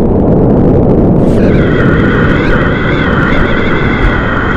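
Whitewater rushing loudly in a river rapid, a dense low roar close to the microphone. From about a second and a half in, a steady high-pitched tone joins it and holds.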